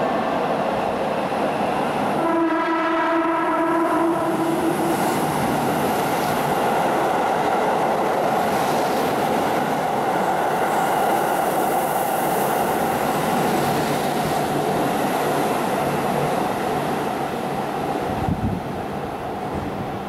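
Keihan 3000 series electric express train sounding its horn about two seconds in, one held note of two to three seconds, then running through an underground station at speed with a steady rolling noise of wheels and motors.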